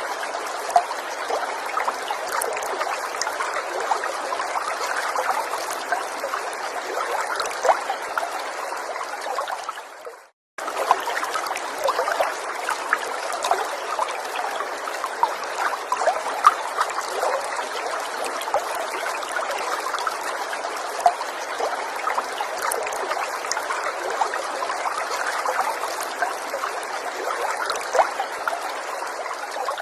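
Small forest stream trickling and babbling steadily. About ten seconds in it fades briefly to silence, then cuts straight back in.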